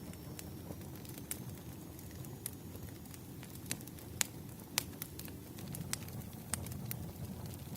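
Wood fire in a fireplace crackling: irregular sharp pops and snaps over a low steady rumble, with two louder pops about four and five seconds in.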